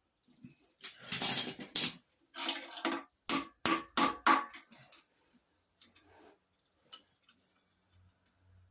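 Hand tools working on metal: two rough, rattling scrapes, then four quick, sharp metallic knocks with a brief ring, about three a second, followed by a few light clicks.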